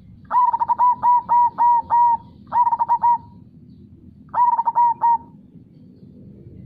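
Zebra dove (perkutut) cooing in three bouts of quick, evenly repeated notes. The first, longest run has about seven notes, followed by a short run of three or four and another of about four near the end.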